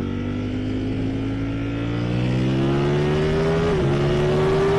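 Ducati Streetfighter V4S's 1103cc Desmosedici Stradale V4 engine pulling under acceleration, its pitch rising steadily. It dips briefly about three and a half seconds in, then keeps climbing.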